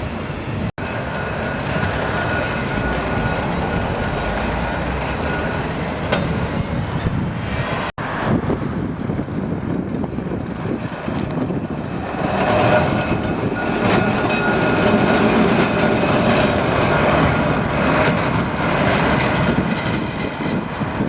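Electric tram running along the track, its wheel and running noise carrying a faint steady whine; it grows louder about twelve seconds in. The sound cuts out for an instant twice, near the start and about eight seconds in.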